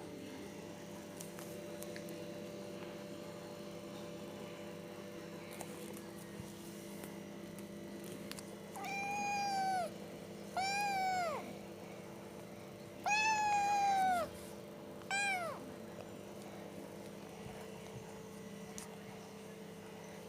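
A cat meowing four times in two pairs, each meow up to about a second long, over a steady background hum.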